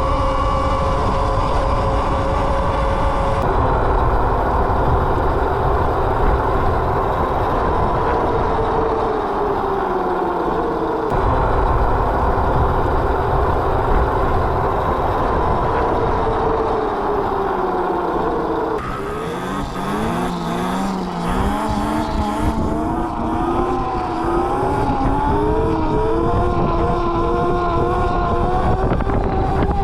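Electric mini bike's motor whining while riding, its pitch falling as it slows and climbing again as it speeds up, with wind rumble on the microphone.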